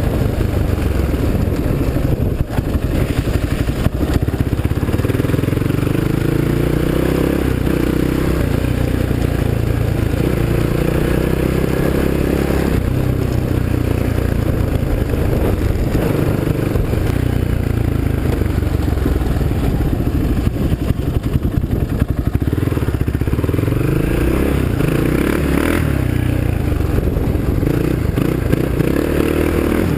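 Polaris Predator quad bike engine running under way, its revs rising and falling over and over, with rattling and scraping from the ride.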